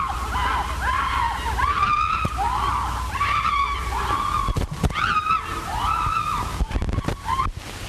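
A rapid string of short, high yelping cries, each rising and falling in pitch, over the hiss and low hum of an early sound-film track.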